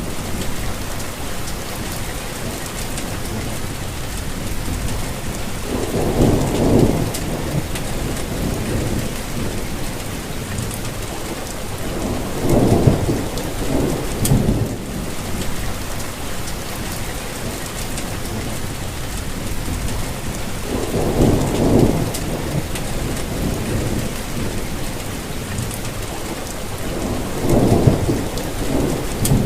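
Steady rainfall, an even hiss of drops with occasional sharper drop ticks, and a low rumble swelling up and dying away four times.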